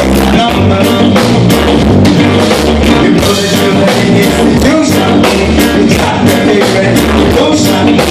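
Live reggae band playing: a pulsing bass line, drum kit and guitar, with some singing over it.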